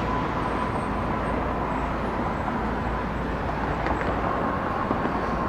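Boeing 737-800 jet engines at takeoff thrust during a departure: a steady, even noise with a faint thin whine above it.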